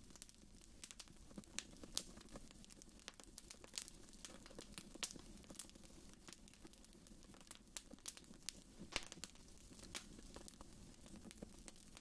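Wood fire in a fireplace crackling faintly: irregular sharp pops and snaps, a handful of them louder, over a soft steady low rumble.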